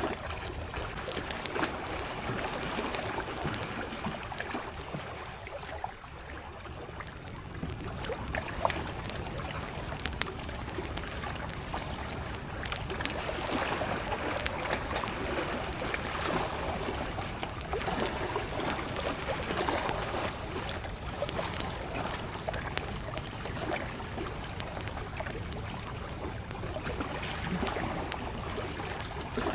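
Wood campfire crackling with many small sharp pops, over gentle lake waves lapping at the shore.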